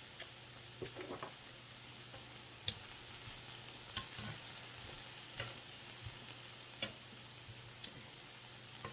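Food sizzling on a tabletop grill, a steady hiss, with sharp clicks scattered through it.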